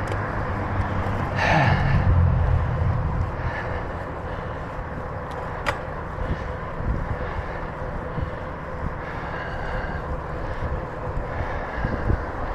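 Wind rushing over the microphone and rolling noise from a bicycle ridden along a trail, with a brief louder swell about two seconds in and a single sharp click later.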